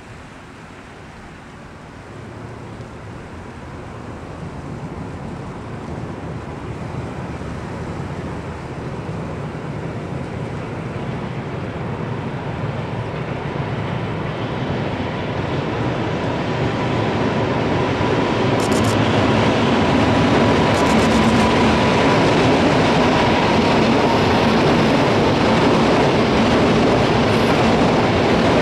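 JR Freight EF200 electric locomotive hauling a long container freight train across a steel girder bridge, approaching from afar and growing steadily louder into a loud rumble of wheels on rails. A steady whine is heard through the middle, and the wagons clatter over the rail joints.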